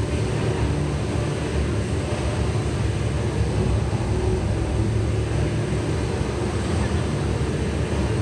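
Steady rush of a tall indoor waterfall, a heavy column of water falling into its basin, deep and even with no breaks.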